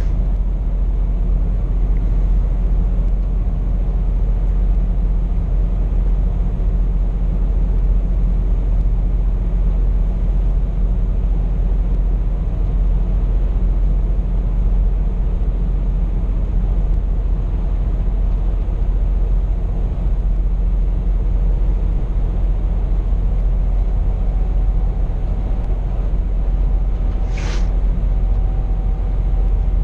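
Scania P420 truck's diesel engine and road rumble heard inside the cab, cruising steadily at about 70 km/h with a heavy loaded trailer. A short hiss comes about two seconds before the end.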